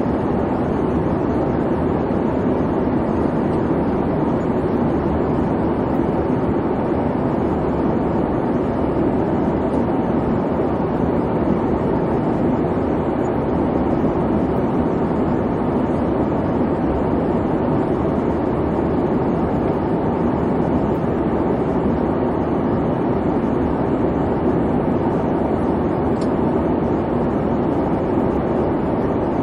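Steady airliner cabin noise in flight: a constant low rumble and hum of engines and airflow, with no changes.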